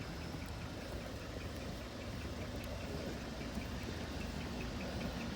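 A vehicle engine idling as a low, steady hum.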